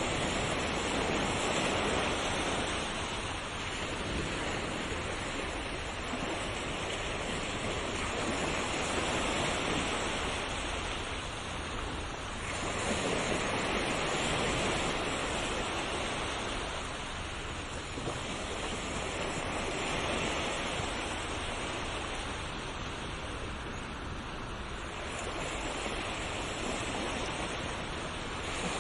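Ocean surf: waves breaking and washing in a continuous rush that swells and eases about every five or six seconds.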